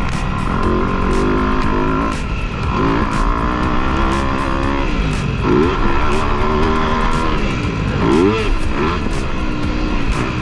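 Dirt bike engine revving, its pitch climbing and dropping again and again as the throttle opens and closes.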